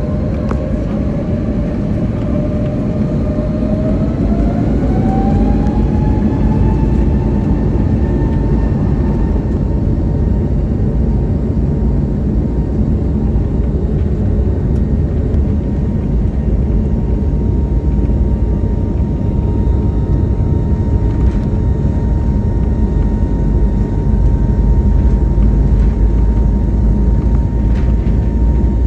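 Airbus A321neo's Pratt & Whitney geared turbofan engines spooling up to takeoff thrust, heard from inside the cabin. A whine rises in pitch over the first several seconds and then holds steady over a loud rumble.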